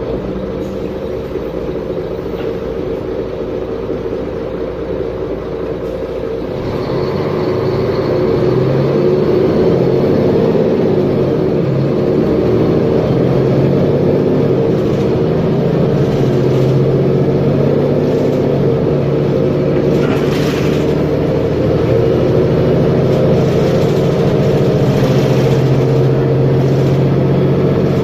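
Mercedes-Benz Conecto G articulated bus's OM457LA inline-six diesel engine running. It gets louder about seven seconds in and then holds steady.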